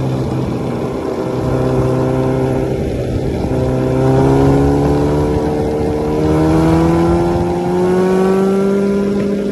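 Kawasaki ZX-14R's inline-four engine running on the road, the rider's own bike heard from the handlebars with wind noise on the microphone. Its pitch holds steady for a few seconds, then climbs slowly as the bike gathers speed.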